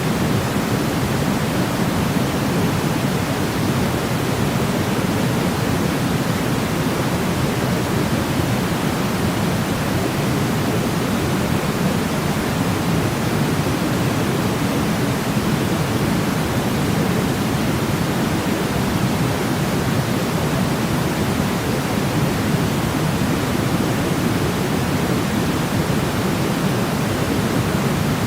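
Steady, unchanging synthetic noise (white/pink noise for baby sleep): an even hiss with most of its weight in the low-mid range, without any rhythm or change.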